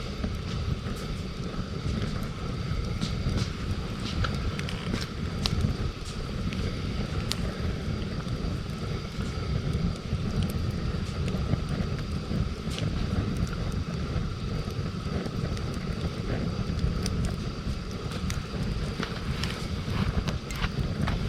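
Wood campfire crackling, with scattered sharp pops, over a steady low rumble of wind on the microphone.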